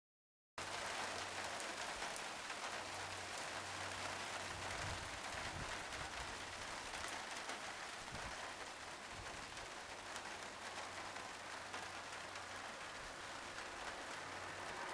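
Steady rain falling during a thunderstorm, an even hiss that starts about half a second in.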